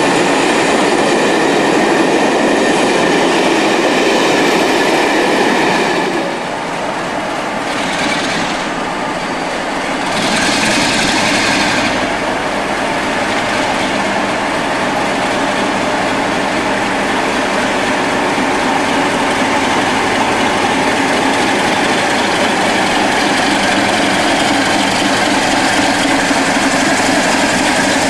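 A train moving through the station, a steady loud rumble with the clatter of wheels over the track. The heavier low rumble eases about six seconds in.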